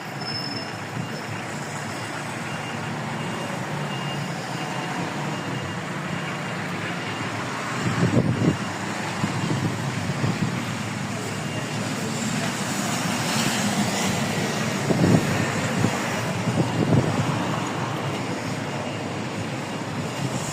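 Steady rain and traffic on a wet town street, an even hiss of rain and tyres, with a few louder low rumbles about eight, fifteen and seventeen seconds in.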